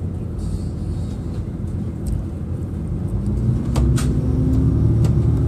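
Train running, heard from inside the carriage: a steady low rumble, with a hum that rises in pitch from about three seconds in and then holds as the train picks up speed, growing slightly louder. A few sharp clicks near the end.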